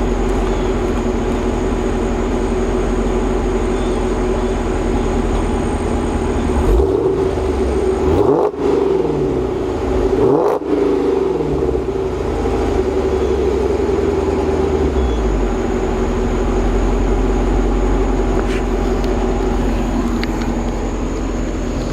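Supercharged 392 (6.4-litre) Hemi V8 of a 2012 Dodge Challenger SRT8, fitted with an Edelbrock E-Force Whipple supercharger and a Corsa exhaust, idling steadily. It is revved twice, about seven and ten seconds in, and the revs fall slowly back to idle.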